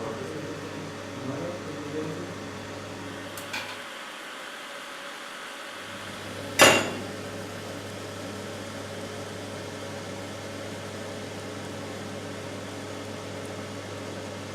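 MKS-CT76 cotton candy machine running with a steady hum while it spins sugar into floss. The low hum drops out for about two seconds, and there is a light click and then, about six and a half seconds in, a sharp knock.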